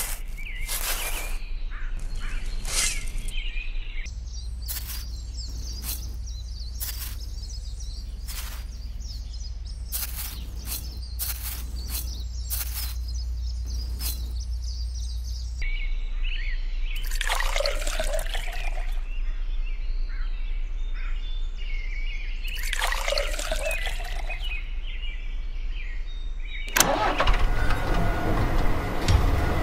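A small metal spoon scraping and tapping as sand and cement are scooped into a miniature mixer's plastic hopper, over a steady low hum with birds chirping in the background. Music comes in near the end.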